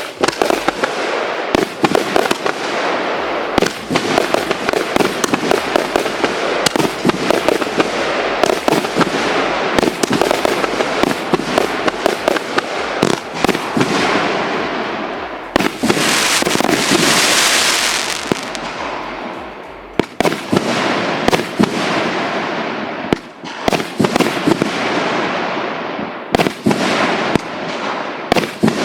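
A 110-shot, 1.75-inch consumer fireworks cake firing in a rapid barrage: launch thumps and aerial bursts follow one another almost without pause. About sixteen seconds in, a few seconds of loud hissing stand out over the bursts.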